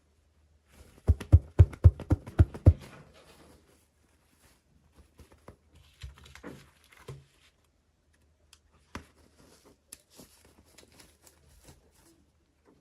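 Small plastic toy pieces and packaging being handled: a quick run of about eight sharp clicks a second or so in, then scattered lighter clicks and rustling.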